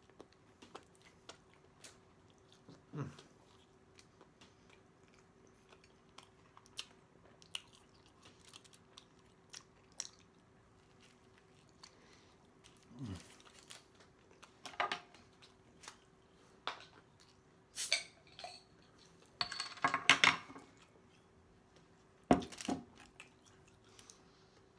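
Close-up mouth sounds of a man chewing a soft corn-tortilla chicken taco: moist chewing with many small smacks and clicks. A few louder bites and handling noises stand out, the loudest about four-fifths of the way through. A faint steady hum lies underneath.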